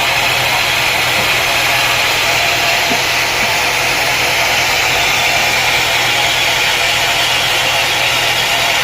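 Sawmill machinery running steadily: an unbroken motor hum under a strong, even hiss.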